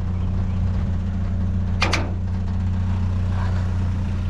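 Vehicle engine running with a steady low hum. A sharp double click comes about two seconds in.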